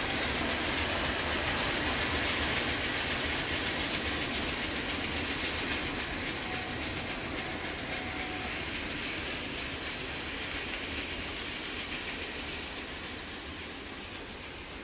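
Freight cars of a Norfolk Southern train rolling past, wheels running on the rails in a steady rumble and hiss that fades slowly toward the end.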